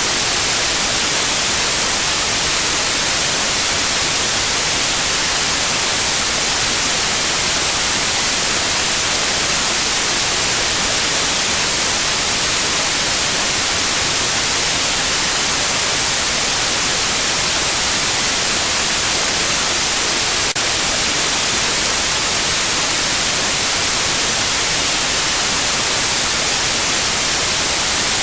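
Steady white noise hiss with a continuous high-pitched 9645 Hz tone over it, a synthesized tinnitus-therapy masking sound. The tone drops out briefly about eight seconds in.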